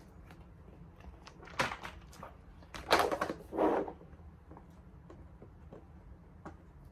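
Bubbles of a large silicone pop-it fidget toy being pressed and popping: a pop at about a second and a half, a louder cluster of pops around three and nearly four seconds in, then scattered lighter clicks.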